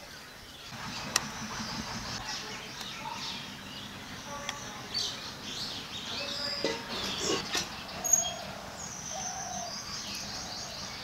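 Small birds chirping and twittering over and over, with a few sharp clicks, the clearest about a second in and about eight seconds in.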